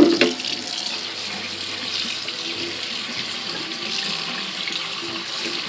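Tap water running steadily over soaked seeds in a strainer as they are rinsed, with a brief knock right at the start.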